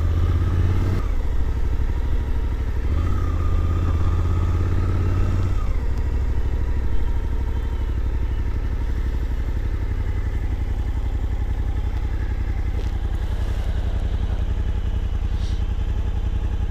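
Suzuki V-Strom 800DE's parallel-twin engine running at low revs, a little louder during the first six seconds, then settling to a steady idle.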